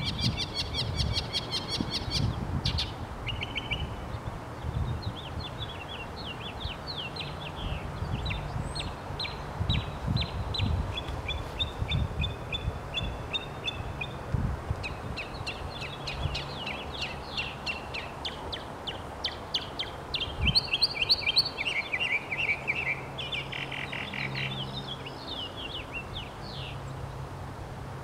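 Songbird singing a long string of chirped phrases, each note repeated several times before switching to a new kind of note, with a low rumble underneath.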